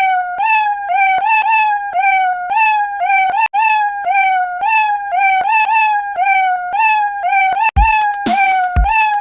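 A cat's meow sampled and repeated as a musical loop, the same short pitched call about twice a second. A drum beat of low thumps and sharp hits comes in near the end.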